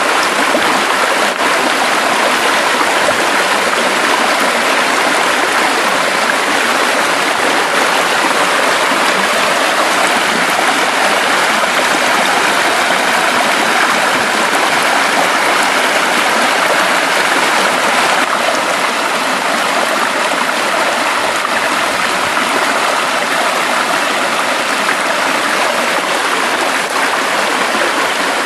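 Forest stream flowing steadily over rocks, a constant rush of running water.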